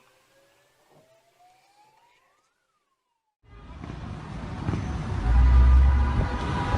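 A faint siren wail rises slowly and then falls. The sound then cuts to silence, and a loud rumbling noise with deep bass thumps begins.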